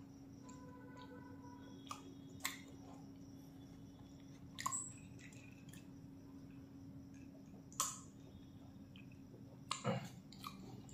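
A person eating: faint chewing with a few short, sharp mouth clicks and smacks spread through, over a steady low hum.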